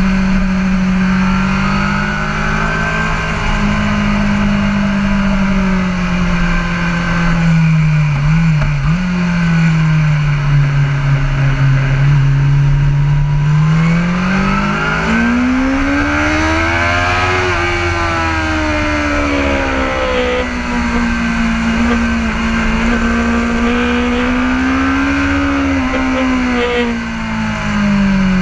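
BMW S1000RR inline-four superbike engine with an Akrapovic EVO exhaust, ridden hard on track: the engine note drops about eight seconds in and stays low for several seconds, then climbs steadily from about fourteen seconds, holds high, and falls again near the end.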